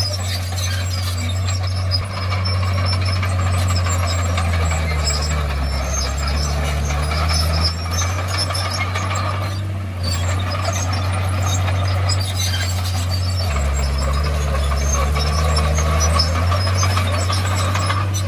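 Komatsu D51PX crawler bulldozer's diesel engine running hard, its note dropping and shifting twice as the load changes. Scattered high squeaks come over it.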